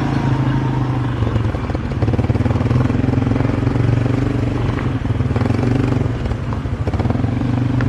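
Small ATV engine running steadily at a constant pitch, with rattling.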